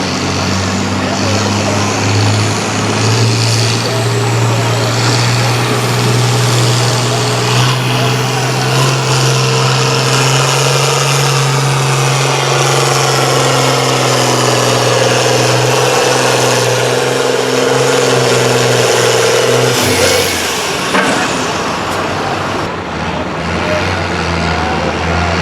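John Deere 4055 tractor's six-cylinder diesel running hard under load on a sled pull, its pitch slowly creeping up. About twenty seconds in the engine is pulled back sharply and drops to a lower, quieter run.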